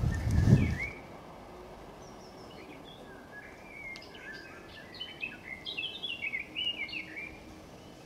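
A small songbird singing a quick run of short chirping notes, many stepping down in pitch, starting about two seconds in. Before it, about a second of low rumbling noise from the microphone being handled, the loudest sound here.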